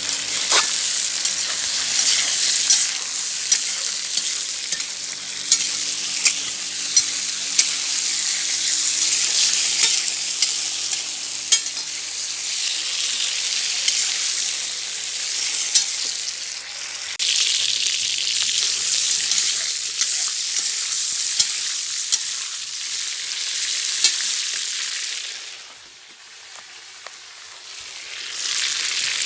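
Loud sizzling in a hot kazan over a campfire, with scattered sharp pops and crackles; the sizzle drops away briefly near the end and then comes back.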